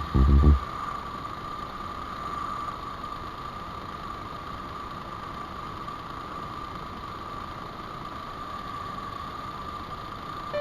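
Suzuki Wagon R's K6A three-cylinder engine idling steadily on freshly replaced drive belts, with a steady whine. A few heavy low thumps in the first half-second.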